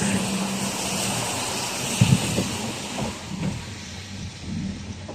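Street traffic: a heavy vehicle going by with a steady rushing hiss over a low rumble, fading slightly after the first couple of seconds. A short knock comes about two seconds in.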